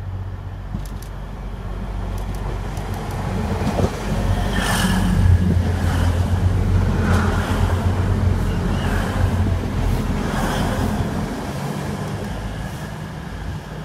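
Passenger train passing through a station close by. The rumble and low hum swell as it approaches, are loudest from about five seconds in while it goes by, and fade as it leaves.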